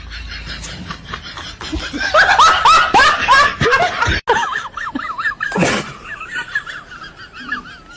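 A baby laughing in a quick run of high-pitched bursts, loudest between about two and four seconds in.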